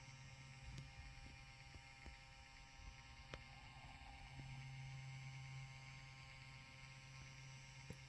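Near silence: a steady low electrical hum with a few faint clicks.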